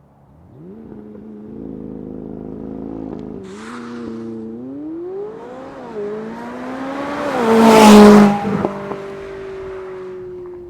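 McLaren 570S twin-turbo V8 exhaust. The engine note comes in about half a second in and holds steady, then revs up and down. The car accelerates past, loudest about eight seconds in, and the pitch drops steadily as it moves away.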